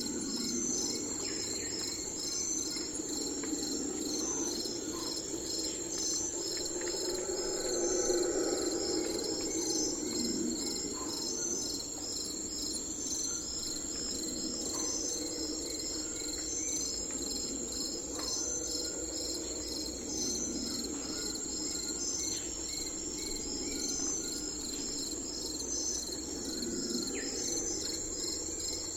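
Crickets chirping steadily in a high, evenly pulsing chorus, over a soft low rushing background, with a few short faint bird calls now and then.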